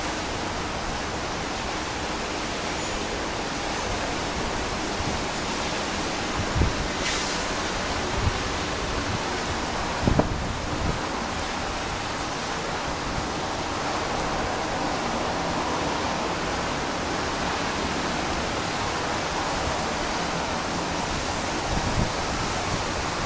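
Steady rushing of strong typhoon wind, with a few short low thumps of gusts hitting the microphone.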